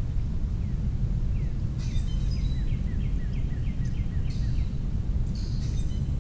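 A songbird sings a run of about a dozen quick, evenly spaced down-slurred notes, about four a second, starting a second and a half in, with a few sharper high chips near the middle and the end. Under it runs a steady low outdoor rumble.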